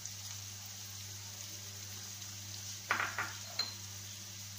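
Chopped onions sizzling steadily in hot oil in a frying pan, with a quick cluster of three or four metal clinks against the pan about three seconds in.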